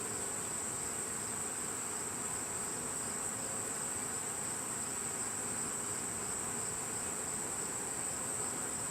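Steady, high-pitched insect drone that never breaks, with honeybees from a swarm buzzing around a hive box.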